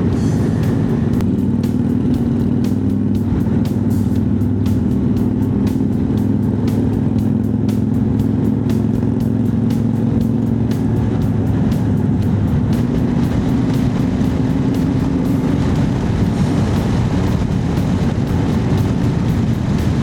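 Honda CB1100's inline-four engine running steadily while riding at cruising speed, its pitch shifting only slightly, with wind rush over it.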